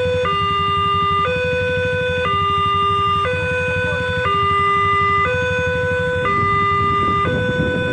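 Railway level-crossing warning alarm sounding: an electronic two-tone signal that alternates high and low about once a second, meaning a train is approaching and the barriers are down. A low rumble runs underneath.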